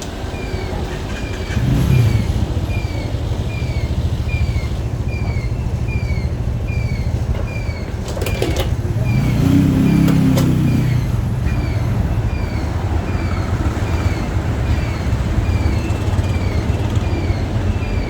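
Motorcycle riding through city traffic: steady low engine and road rumble. A short high chirp repeats a little more than once a second, and a louder swell of passing-vehicle noise rises and falls about halfway through.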